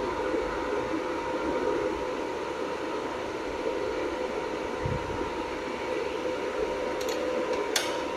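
Steady whirring hum of a jewelry laser welding machine's cooling fan, with a couple of sharp clicks near the end.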